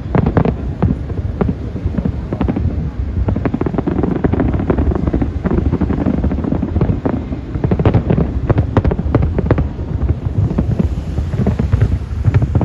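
Strong wind buffeting the microphone: a loud, rumbling low roar broken by constant crackling gusts.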